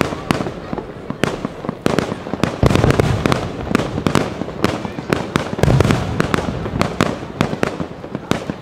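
Fireworks display: a dense, continuous run of bangs and crackling, with heavier low booms about a third and two-thirds of the way through.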